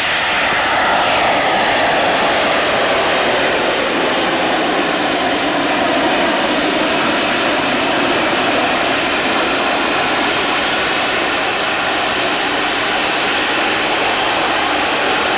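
Loud, steady aircraft engine noise, with a pitch that falls over the first few seconds as the aircraft passes.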